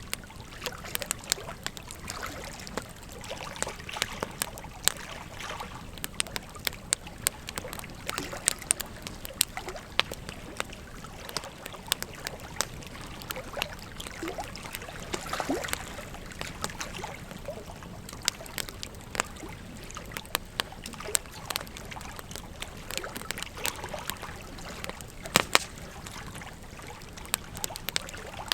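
Wood fire crackling with frequent irregular pops and snaps over the steady rush of a flowing river, with one louder snap near the end.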